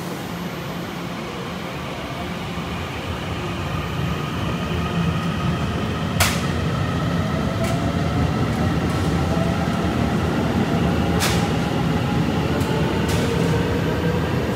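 Train running through the underground station platform: a low rumble that grows louder, with faint tones slowly shifting in pitch over it and several sharp clacks, the loudest about six and eleven seconds in.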